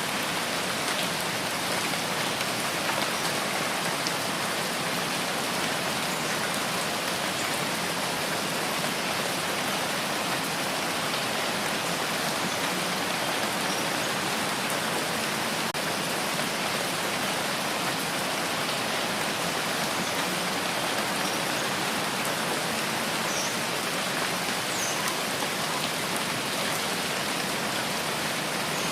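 Steady rain falling, an even dense hiss that holds the same level throughout.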